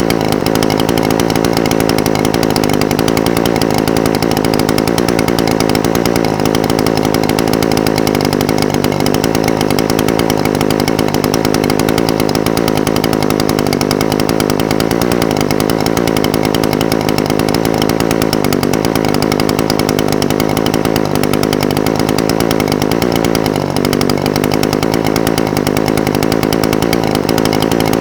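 Echo SRM-420TES brush cutter's two-stroke engine idling steadily, its idle speed wavering slightly now and then.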